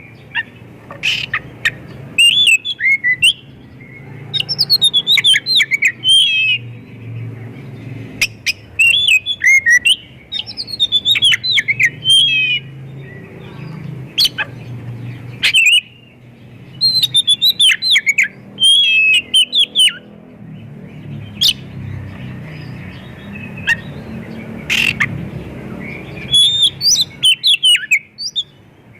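Oriental magpie-robin (kacer) singing vigorously in repeated bursts of quick, varied whistled and chattering phrases, with short pauses between them. The song is packed with mimicked calls of other birds. A low hum runs underneath.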